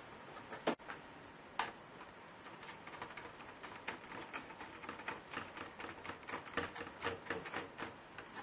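Small hard clicks and taps of a Lenovo Y570 laptop's plastic case and parts being worked on by hand during disassembly. Two sharper knocks come in the first two seconds, then a long run of quick, irregular clicks.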